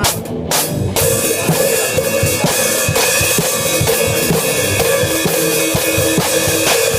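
Drum kit played loudly with kick and snare hits. From about a second in, the cymbals ring in a continuous crashing wash. Another instrument holds a steady pitched note underneath.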